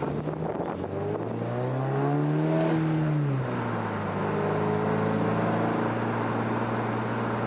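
Toyota GR86's flat-four engine heard from inside the car while driving. Its pitch rises, drops about three seconds in, then holds steady at cruise.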